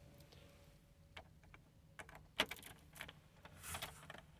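Faint, scattered light clicks and taps, with a sharper click about two and a half seconds in; no engine running.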